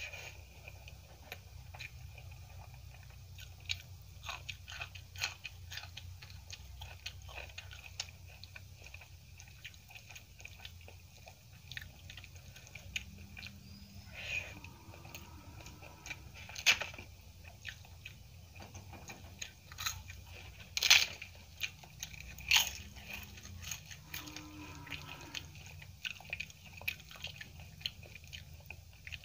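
Close-up eating sounds: chewing mouthfuls of rice mixed with potato curry and crumbled papad, with many small crisp crunches and a few much louder crunches past the middle.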